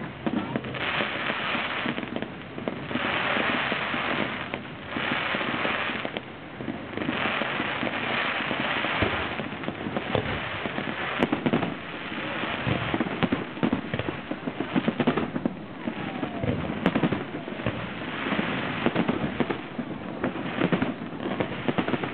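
Fireworks display: surges of hissing a second or two long from rising comets and fountains, giving way about halfway through to a dense run of rapid bangs and crackles as aerial shells burst.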